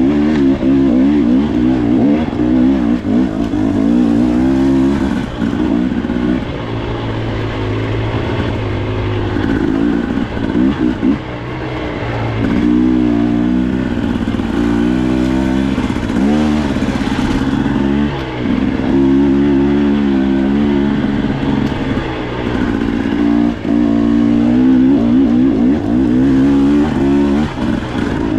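Dirt bike engine running under changing throttle on a trail, its pitch rising and falling as it revs up and eases off, dropping back briefly several times.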